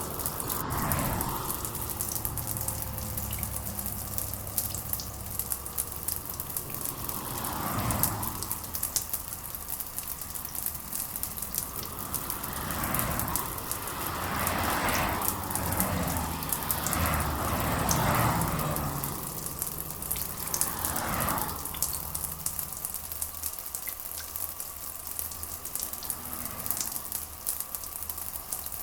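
Steady rain hissing, with several brief swells that rise and fall, most of them in the middle stretch.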